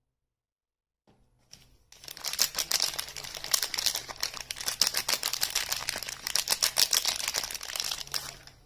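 Soap packaging crinkling and crackling as a wrapper is handled and opened, a dense run of quick crackles that starts about two seconds in and fades near the end.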